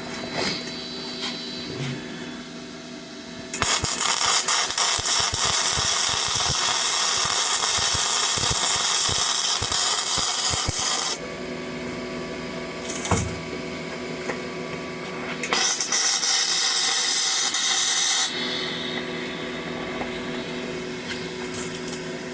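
Flux-core arc welding with a Parkside PMSG 200 A1 welder: the arc runs as an even, hissing crackle in two beads, a long one of about seven seconds and a shorter one of about three, with the machine's steady hum underneath. The gun is being dragged along the joint, as flux-core wire calls for.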